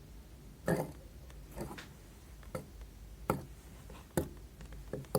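Fluffy soap slime being handled, giving short sticky clicks and squishes about once a second.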